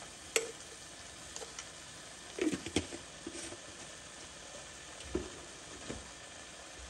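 Chicken mince frying in a stainless steel pot with a steady sizzle while it is browned. A spoon stirring it scrapes and clicks against the pot a few times, with a cluster of clicks near the middle.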